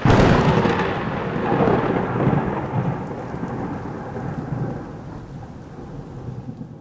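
A deep rumble that starts suddenly and loud, then slowly dies away over about six seconds.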